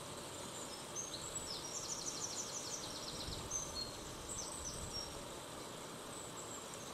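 A small bird chirping over a steady background hiss: a quick run of repeated high notes, then a few short downward-sliding chirps.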